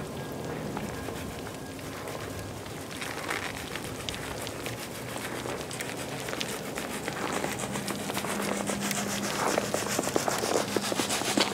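Outdoor street ambience in a snowstorm: a steady noisy hiss with scattered crackles that grow denser in the second half, and a low steady hum joining about seven seconds in.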